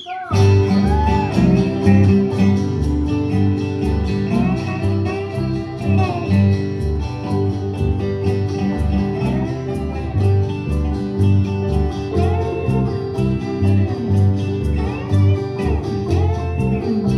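Bluegrass band playing an instrumental break: plucked guitar and a steady bass line under a lead whose notes slide up and down in pitch. The full band comes in loudly just after the start.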